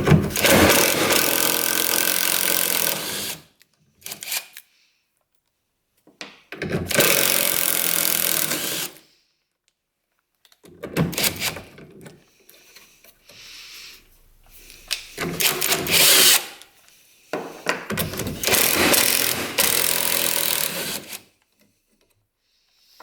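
Power drill running in about five bursts of one to four seconds each, with short pauses between, as it works bolts or screws out of a UTV's tailgate.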